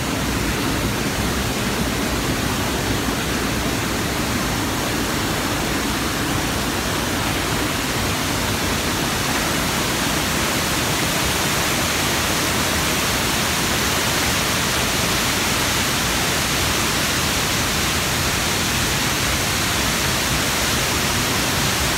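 A waterfall's steady, unchanging rush of falling water, filling every pitch from low rumble to high hiss.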